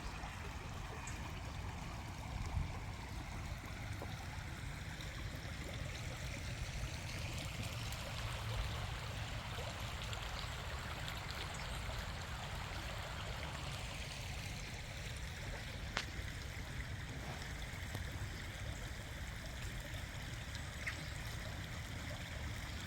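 River water flowing steadily, with a brief click about two-thirds of the way through.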